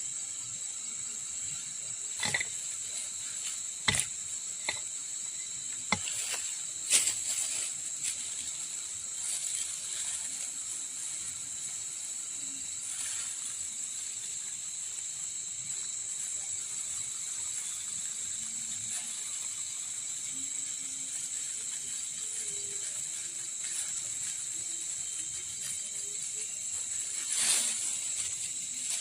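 A steady, high-pitched chorus of insects chirring, with a handful of sharp clicks and knocks in the first seven seconds and another near the end.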